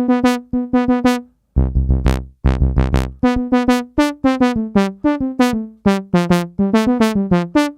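Dave Smith Instruments Tempest analog synth playing a brassy sawtooth sound as a run of short notes of changing pitch, struck on its pads. The brightness of each note changes with how hard the pad is hit, because velocity opens the low-pass filter. Two longer, lower notes come about a second and a half in.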